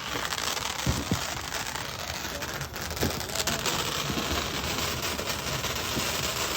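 Small handheld firework burning and spraying sparks with a steady hiss, with a few faint knocks about one and three seconds in.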